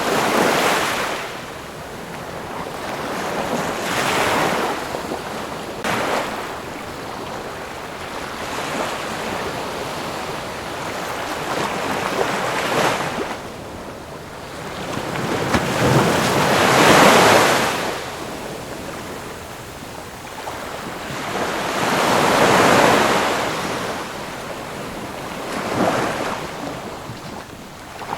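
Ocean waves breaking on the shore in a repeating wash of surf. The loudest swell comes about two thirds of the way through.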